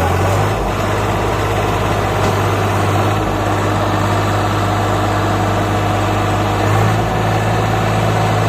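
Swaraj 744 FE tractor's diesel engine running steadily.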